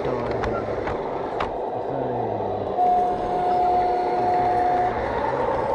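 G scale model train running on a garden railway, its sound unit giving one long steady signal blast of two tones an octave apart from about three seconds in, lasting about two seconds.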